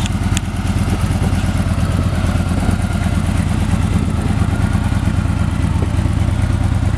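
A 2013 Victory Hard-Ball's 106 cubic inch V-twin idles steadily. There is one short tick about half a second in.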